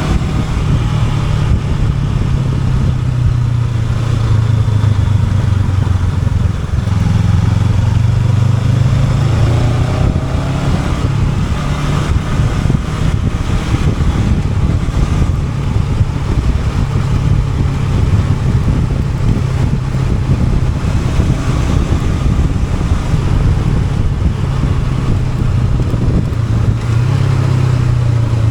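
Honda NX500's parallel-twin engine running under way, its note rising and falling with the throttle over a steady rush of wind and road noise.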